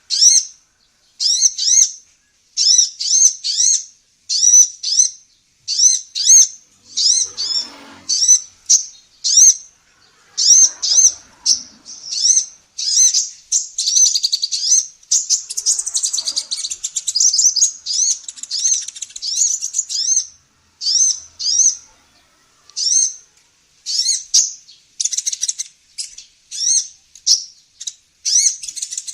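Female kolibri ninja sunbird singing: a string of short, high chirps, one or two a second, that run together into a fast unbroken twitter for several seconds midway before breaking back into separate notes.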